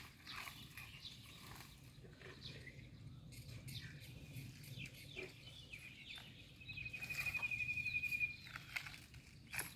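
Birds chirping in short calls, with one rapid, evenly pulsed trill lasting about a second and a half two-thirds of the way in, and a sharp click near the end.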